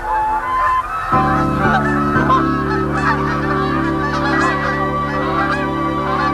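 A flock of Canada geese honking and calling over one another. About a second in, steady low sustained music tones come in beneath the calls.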